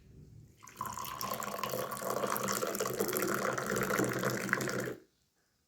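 Tea being poured into a glass: a steady stream of liquid that starts just under a second in and stops sharply after about four seconds.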